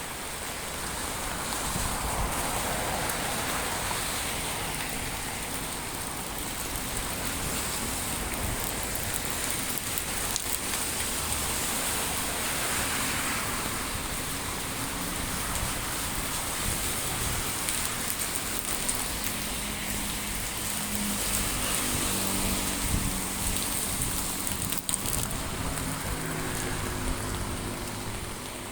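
Heavy rain falling steadily and splashing on hard surfaces. A low hum joins in for the last third.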